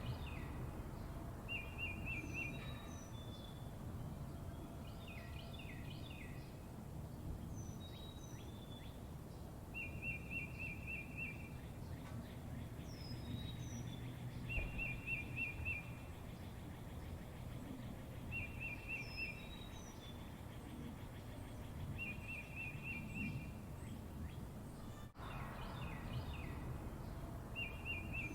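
Garden birds singing: a short, rapid trill repeated every few seconds, with higher chirps in between, over a steady low background noise.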